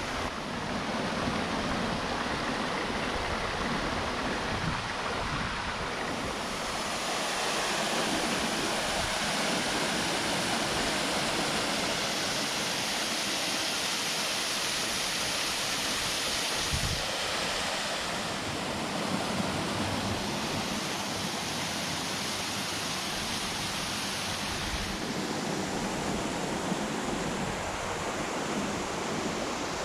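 Waterfall on a small mountain stream, a steady rush of falling water that grows louder and brighter about a quarter of the way through and eases back near the end.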